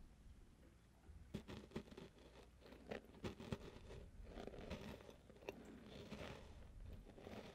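Faint, close-miked chewing of a Hershey's chocolate cookie: quiet for about a second, then a run of irregular crisp crunches, followed by softer, denser chewing.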